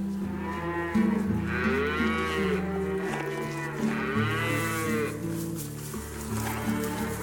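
A cow mooing twice, each long call rising and then falling in pitch, over background music.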